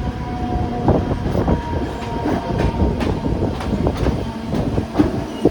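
Mumbai local electric train running, its wheels knocking irregularly over rail joints above a steady rumble and hum.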